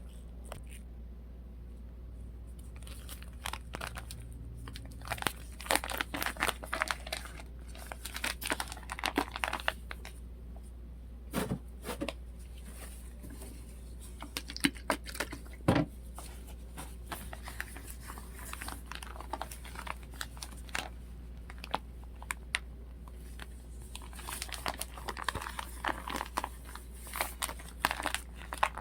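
Crinkling and rustling of handled plastic in irregular bursts, with a few sharper clicks, over a steady low hum.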